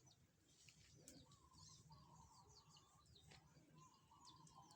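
Faint chickens calling: many short, high, falling peeps with a few longer, wavering, lower calls, over a low steady rumble.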